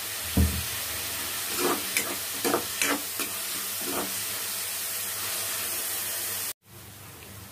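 Chopped onions sizzling in hot oil in an iron kadai, with a steel spoon scraping and clicking against the pan as they are stirred, and a low thump about half a second in. The sizzle cuts out abruptly near the end and comes back quieter.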